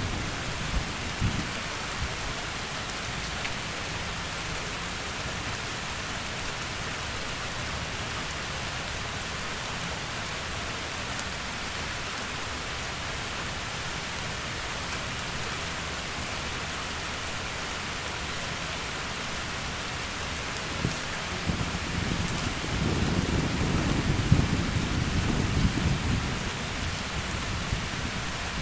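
Heavy rain falling steadily as an even hiss. About three-quarters of the way in, a low roll of thunder swells and rumbles for several seconds, then fades.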